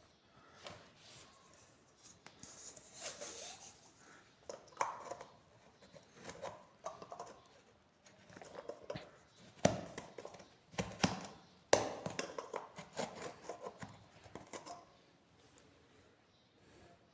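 Hands handling small hard objects: irregular clicks, taps and light rustling, with sharper knocks about ten, eleven and twelve seconds in.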